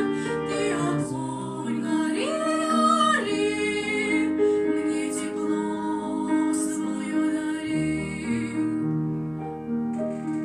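Two young girls singing a song with grand piano accompaniment, holding a long note with vibrato about two seconds in. Near the end the voices stop and the piano plays on alone.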